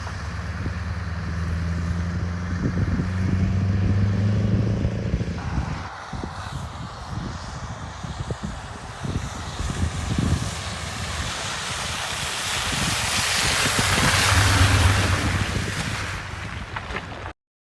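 Scania 164G tractor unit's 580 hp V8 diesel running, a steady low hum for the first five seconds, then mostly wind and road noise, with the engine louder again near the end before the sound cuts off suddenly.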